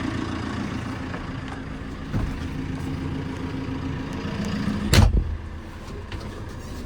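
JCB 3CX backhoe loader's diesel engine idling steadily, with a small knock about two seconds in and a loud single thump about five seconds in.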